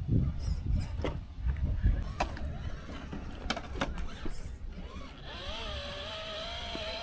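Radio-controlled rock crawler on rock: a low rumble near the start and scattered sharp clicks and knocks of the truck working over the rocks, then from about five seconds in its electric motor whines, the pitch wavering with the throttle.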